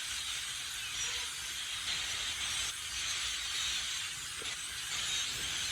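A huge flock of blackbirds calling all at once from the trees: a dense, steady chatter of countless overlapping chirps that blend into a hissing wash.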